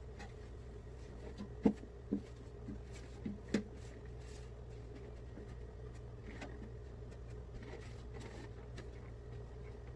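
Light knocks and clicks from items being handled while a refrigerator is cleaned, four or five in the first few seconds, over a steady low hum.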